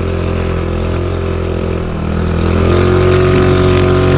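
A vehicle engine running steadily, then revving up and growing louder about two and a half seconds in, as it pulls up a steep slope.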